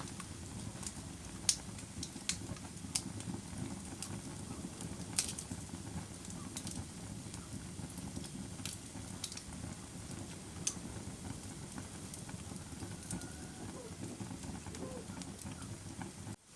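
Wood fire crackling in a fireplace: irregular sharp pops and snaps over a low, steady rumble of the flames. The sound cuts out for an instant near the end.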